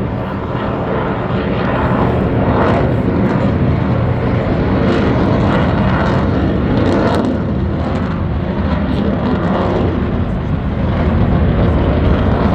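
Fixed-wing aircraft flying past, its engine noise loud and steady, with a slight swell near the end.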